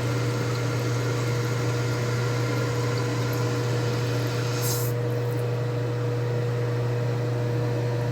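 Steady low mechanical hum with a fixed higher tone above it, running evenly, and a brief hiss about four and a half seconds in.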